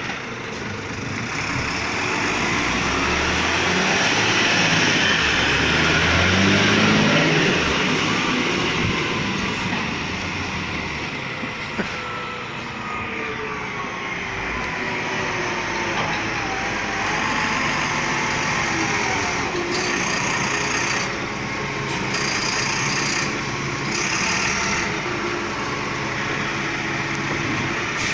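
Front-load garbage truck's diesel engine revving up about five seconds in, then running steadily at a lower pitch.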